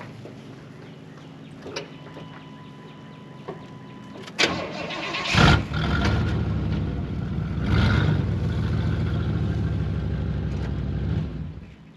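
A vehicle engine starts about five seconds in with a short loud burst, runs steadily for about six seconds, swelling once partway through, then shuts off near the end. A low steady hum runs underneath before it starts.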